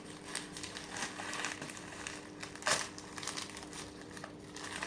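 Crinkling and crumbling as hands break a piece off a sandy mineral block, with one sharper crackle about two and a half seconds in.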